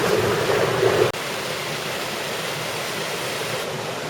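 Small waterfall on a creek pouring steadily, a continuous rush of water. About a second in it cuts abruptly to a slightly quieter, even rush of water.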